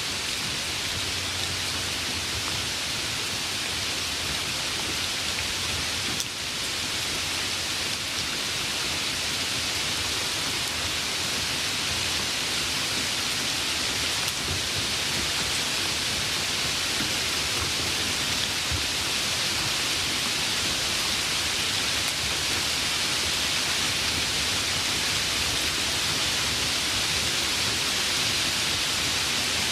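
Steady, heavy rainfall: an even, unbroken hiss of rain with no distinct drops or thunderclaps standing out.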